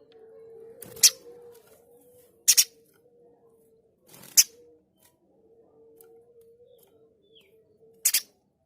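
Spiderhunter (pijantung gunung) giving short, harsh, sharp call notes, one about a second in, a quick pair, another in the middle and one near the end, over a faint low steady tone.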